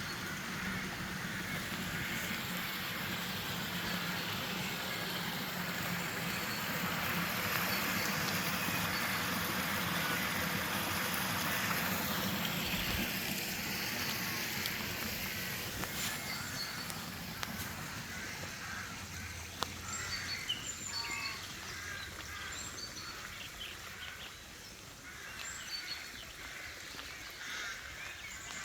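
A steady rushing noise, loudest in the first half and easing off after about halfway, with small birds chirping repeatedly through the second half.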